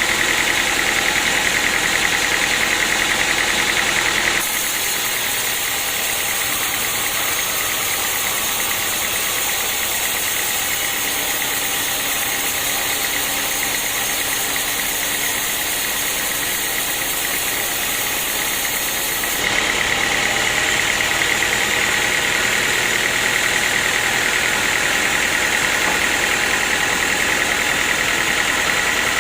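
Sawmill machinery running steadily, an engine drone with a whine high above it. About a sixth of the way in the sound abruptly turns thinner and a little quieter; about two thirds in it switches back just as abruptly to the fuller sound.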